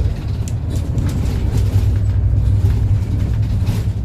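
City bus under way, heard from inside the cabin: a steady low engine and road drone, with a couple of brief clicks from the cabin.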